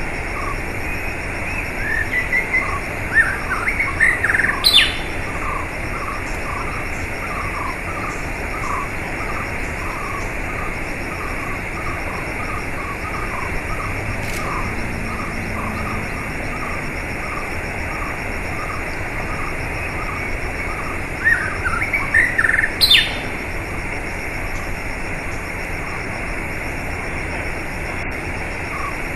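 Steadily running water with birds chirping over it: a run of short chirps, two or three a second, through most of it, and two louder bursts of rising calls, one a few seconds in and one about two-thirds of the way through.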